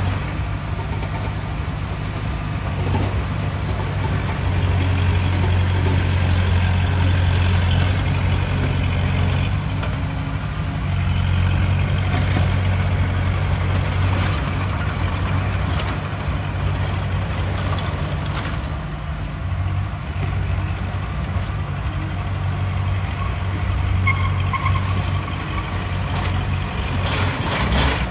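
Heavy diesel earthmoving machinery running steadily under load, with a deep engine hum and scattered knocks and rattles.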